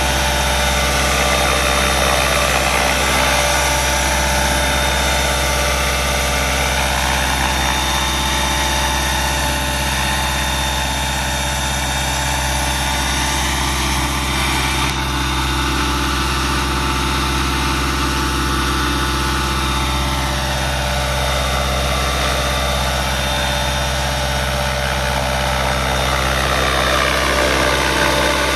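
Electric RC helicopter, Align T-Rex 550e mechanics stretched to 600 size in a Roban Airwolf scale fuselage, flying. Its rotor and motor make a steady drone, with a higher whine that slides down and back up in pitch several times.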